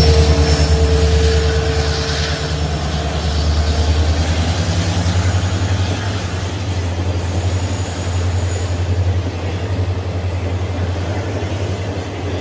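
Passenger train passing close on a curve behind a diesel locomotive: a steady low engine drone over the rolling noise of the coaches' wheels, with a held tone that fades out about four seconds in.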